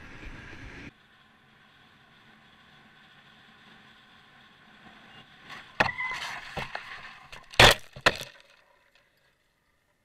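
A vehicle crash: a run of sharp impacts and clattering, with the loudest strikes close together about seven and a half seconds in. Before it, a steady road and wind noise cuts off abruptly about a second in.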